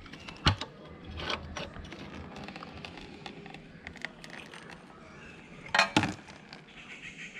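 Metal clicks and clanks of a spanner loosening the 17 mm oil drain nut on a Bajaj Pulsar 220, with a louder cluster of metallic knocks about six seconds in.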